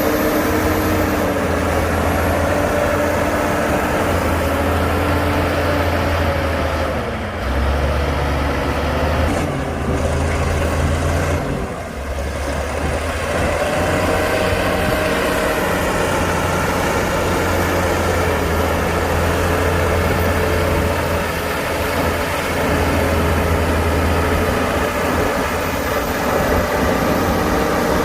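Komatsu D60-P bulldozer's diesel engine running steadily as it works, its note dipping and changing pitch briefly twice.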